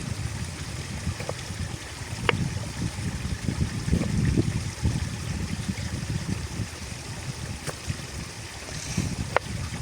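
A stream flowing steadily, with a few short sharp clicks now and then.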